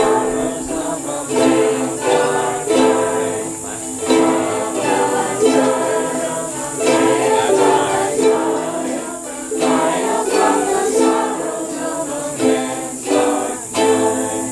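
A group of ukuleles strumming chords in a steady rhythm, with voices singing along; the playing stops just before the end.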